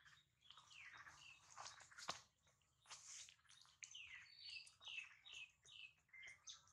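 Faint bird chirping: short high chirps, then a quick run of evenly spaced falling notes in the second half.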